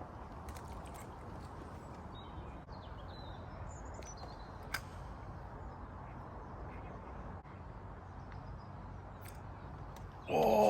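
Steady outdoor background noise with faint bird calls and a few sharp clicks. Near the end comes a short, loud pitched call.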